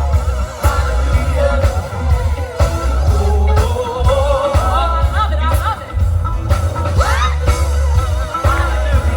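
Live band playing a funk dance number: a heavy bass line and steady drum beat, with a singer's voice over the top.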